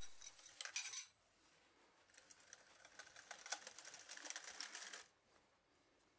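Faint metal-cutting scrape and ticking as a cutting tool opens up the bearing housing in the hub to a press-fit size. A few clicks come first, then a steady rasping cut starts about two seconds in and stops abruptly near the end.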